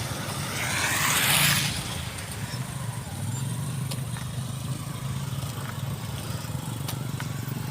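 An engine running steadily with a low hum, and a loud rushing noise for about the first second and a half.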